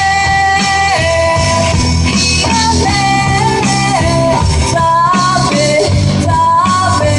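Rock music with a sung melody over guitar and a full band backing.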